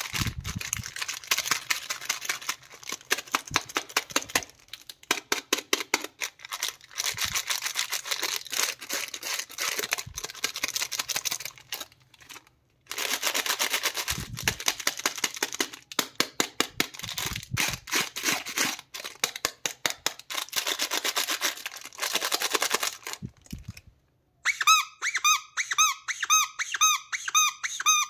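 Plastic packaging crinkling and crackling as it is unwrapped, in rapid clicks with short pauses. About 24 seconds in, this gives way to a run of short, high, repeated chirping squeaks from a toy bird, about three a second.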